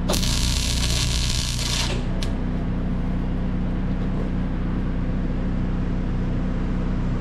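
A welding arc crackling and hissing for about two seconds, cutting off abruptly, over the steady hum of an engine running throughout.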